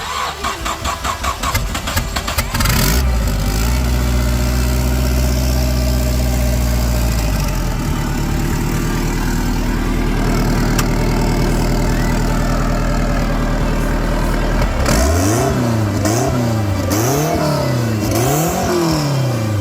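Turbocharged Nissan B14 engine with a fabricated stainless exhaust manifold and exhaust, cranking with a quick run of starter pulses and catching. It idles high, drops to a lower idle about seven seconds in, and near the end is revved up and down several times in quick succession.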